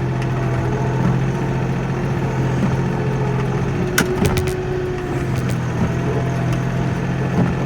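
Kioti NX4510 tractor's diesel engine running steadily, with a quick cluster of sharp clicks about four seconds in.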